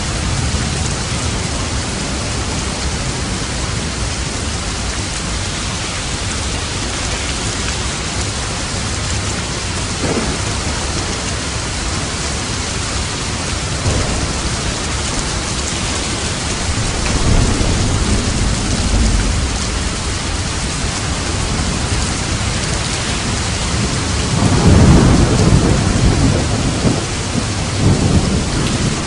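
Steady heavy rain with thunder rumbling several times, the loudest roll coming a few seconds from the end.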